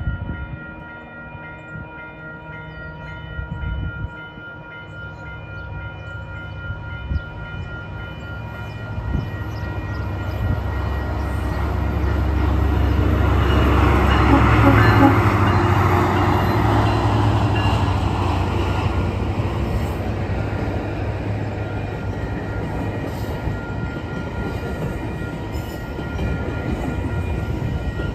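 Level-crossing warning bell ringing steadily while a GO Transit commuter train approaches and passes. The train's rumble swells to its loudest about halfway through as the front of the train goes by, then settles into the steady roll of bilevel coaches over the crossing.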